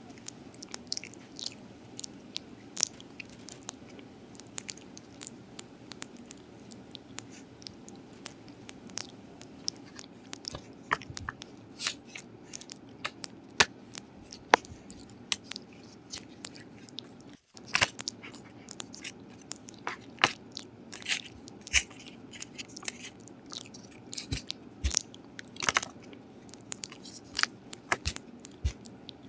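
A dog eating close to the microphone: irregular crunching, biting and chewing with frequent sharp crunches, broken by a momentary dropout about two-thirds of the way through.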